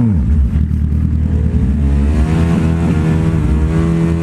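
Sport motorcycle engine under way. Its pitch drops just after the start, then it runs steadily and climbs gently from about halfway.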